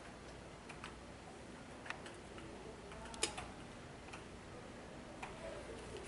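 Rain with a faint steady hiss, and single drops tapping sharply at irregular intervals, the loudest about three seconds in.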